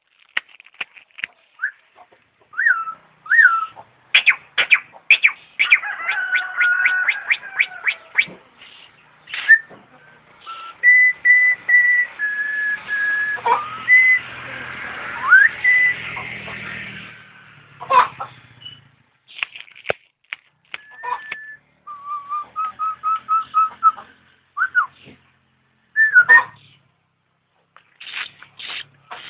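A jalak, a myna-type starling, singing a varied mimicking song of whistles, fast series of clicking notes and pitch glides. Midway it holds alternating high and low whistled notes, like a two-tone ambulance siren.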